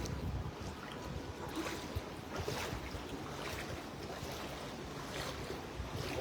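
Storm wind rumbling on the microphone with hurricane storm-surge floodwater sloshing and splashing, in irregular small splashes.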